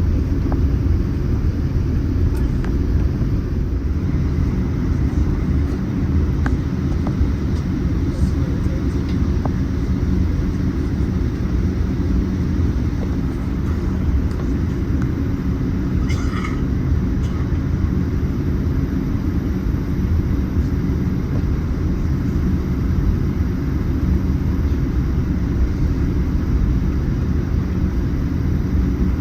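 Steady low rumble of a Boeing 787-9's cabin noise, engines and airflow heard from inside the passenger cabin. A short, faint high sound comes about halfway through.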